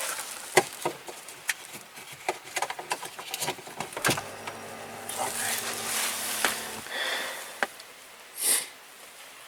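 Scattered light clicks and knocks of a smart key and scan tool being handled, with a sharper click about four seconds in followed by a low steady hum for about three seconds, and a short hiss near the end.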